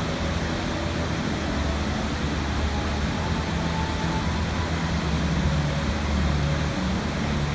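Steady rushing water noise, even and unbroken, with soft held music tones underneath.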